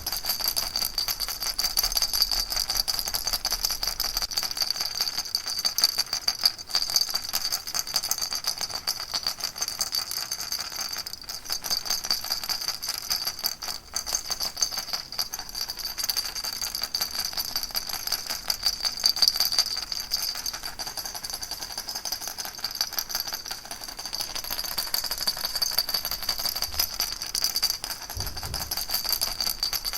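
Baby rattle shaken steadily without pause: a dense, fast rattling of its beads that runs on evenly.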